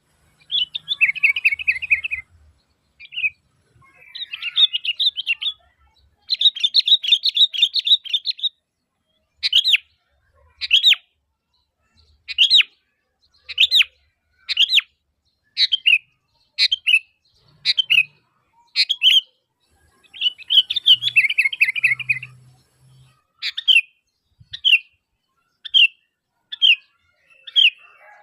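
Sooty-headed bulbul (kutilang) calling: runs of rapid chattering notes alternate with a string of short, separate notes about one a second.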